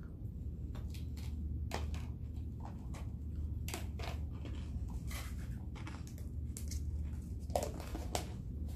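A person chewing a last mouthful of chicken and noodles close to the microphone, with scattered short mouth clicks and smacks. A steady low hum runs underneath.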